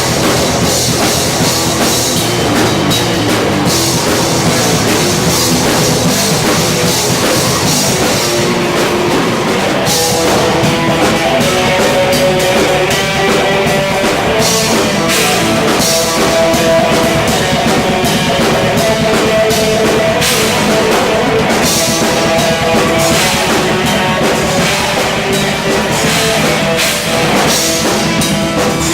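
Rock band playing loudly live: a full drum kit and electric guitars, with sustained guitar notes coming in about a third of the way through.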